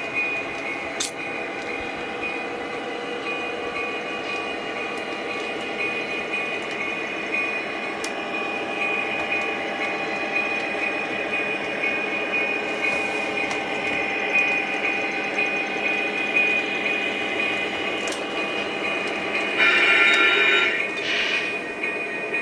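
Sound system of the model Union Pacific 1996 Southern Pacific heritage diesel locomotive: the diesel engine sound running steadily as the train rolls, with a short horn blast near the end, the loudest thing heard.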